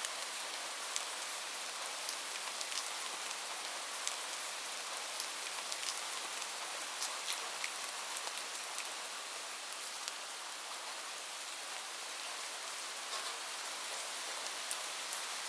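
Light rain falling steadily, a soft even hiss with scattered close drops ticking on a surface.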